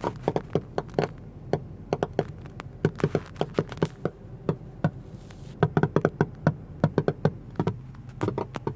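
Passenger-side rear 6x8 car speaker popping and crackling: irregular sharp pops, several a second in uneven clusters, over a low steady hum. It is a fault in that one speaker's channel whose cause the owner has not found; he suspects the speaker wire or RCA cables rather than a ground loop.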